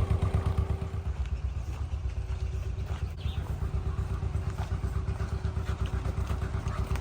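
Narrowboat's inboard engine running at tick over, a steady rapid low thudding.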